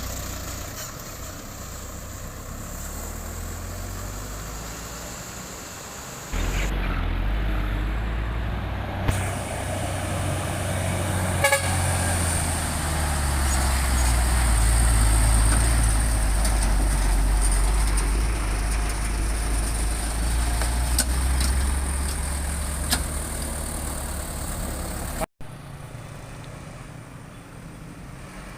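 Heavy truck engines running with a deep, steady rumble that grows louder about six seconds in. The sound changes abruptly near the end.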